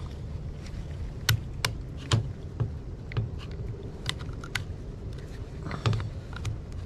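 Irregular small metal clicks and taps of chainsaw chain-brake parts being handled and fitted by hand, over a steady low hum.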